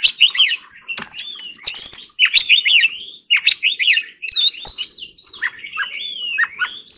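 Oriental magpie-robin singing: a rapid, varied song of whistled and chattering notes with no break, with a loud rising whistle just past the middle.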